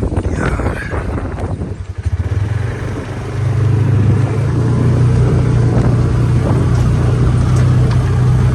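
A vehicle's engine runs at low revs with some knocks and rattles over the first two seconds. About three seconds in it gets louder and settles into a steady drone as the vehicle drives on.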